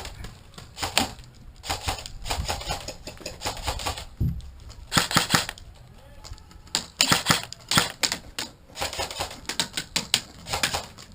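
Airsoft guns firing in several bursts of rapid, sharp clicking shots, with short pauses between bursts.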